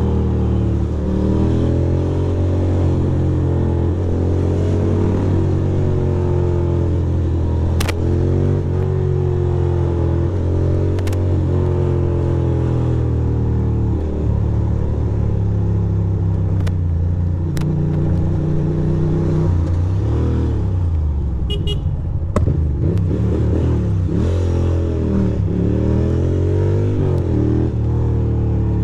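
2006 Ducati Monster 620's air-cooled V-twin engine running under way, its pitch rising and falling through the gears as the bike accelerates and rolls off. A short burst of horn beeping sounds a little past two-thirds of the way through.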